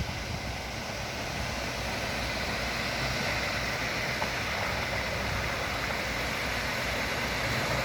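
Heavy truck engine running steadily as concrete is being pumped, a continuous low drone with a hiss over it.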